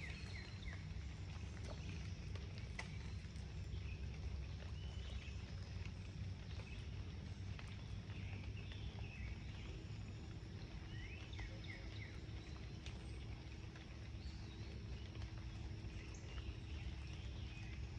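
Outdoor ambience: birds chirping in short bursts now and then over a steady low rumble. A faint steady hum joins about halfway through.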